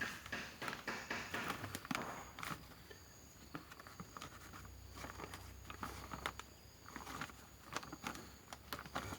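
Hands packing and firming a potting mix of soil, compost and rice-husk charcoal around a durian cutting in a pot: irregular crunching and scraping with clusters of small clicks, busiest at the start and again near the end.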